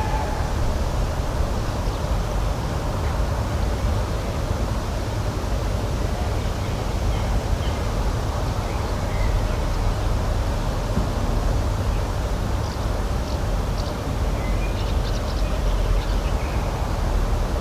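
Steady outdoor rushing noise, strongest in the low end, with faint short bird chirps scattered through the second half.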